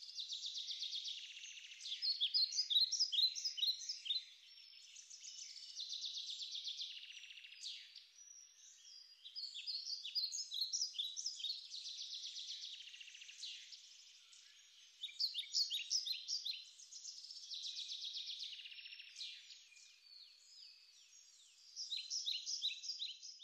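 Birdsong: high, fast trills alternating with runs of sharp chirps, in phrases that repeat every few seconds.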